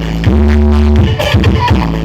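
Loud electronic dance music played through a large mobile 'sound horeg' speaker rig during a sound check, with heavy bass notes held for most of a second each, twice.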